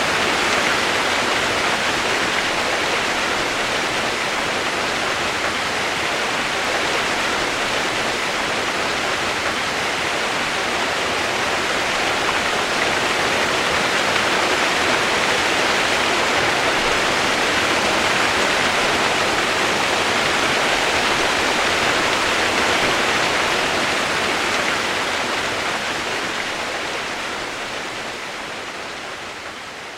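Steady rain-like white noise, an even hiss, fading out over the last few seconds.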